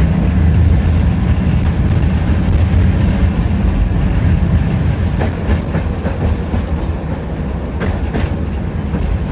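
Tram running along the rails, heard from inside the car: a steady low rumble of wheels on track, with a few sharp clacks in the second half as the wheels pass over rail joints.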